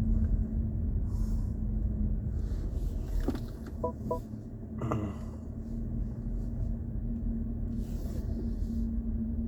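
BMW i4 M50 electric car driving slowly, a steady low road rumble with a faint steady hum. There are two short electronic beeps about four seconds in.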